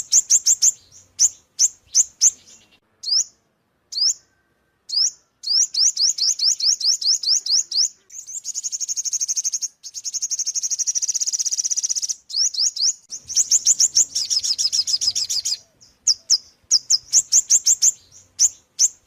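Ornate sunbird singing: a run of high, upward-sweeping notes, about four a second, broken by short pauses. Twice it goes into a fast trill lasting a few seconds.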